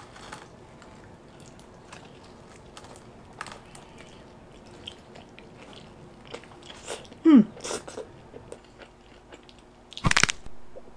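Close-miked biting and chewing of a fried pizza slice, the crisp crust crunching in scattered small crackles. About seven seconds in comes a short falling vocal hum, and about ten seconds in a loud sudden burst.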